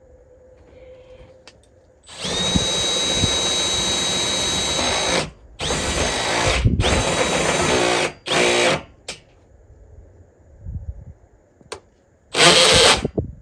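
Power drill driving a hole saw with a pilot bit into a building's metal-sided wall. The drill runs in bursts: a steady run of about three seconds, a brief pause, another run of about two and a half seconds, then two short blips, and one more short burst near the end.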